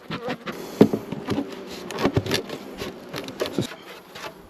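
Honey bees buzzing close around the microphone, with several sharp knocks and clicks about a second apart.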